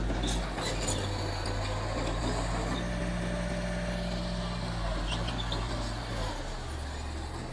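Mitsubishi bulldozer's diesel engine running steadily, with a few light metallic clinks about a second in and again around five seconds in. The engine note shifts shortly before the end.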